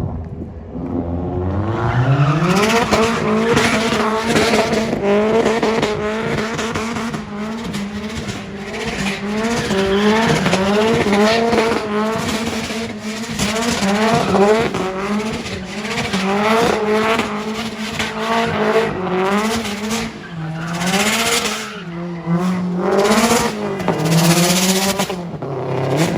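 Car engine revving up within the first two seconds and held high, its pitch wavering, for about twenty seconds while the tyres spin and squeal in sustained wheelspin. In the last few seconds the revs dip and bounce before the engine drops off near the end.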